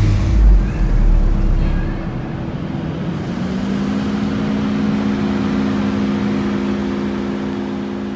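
Car engine running just after a remote start: a loud low rumble for the first second or so that settles into a steady idle.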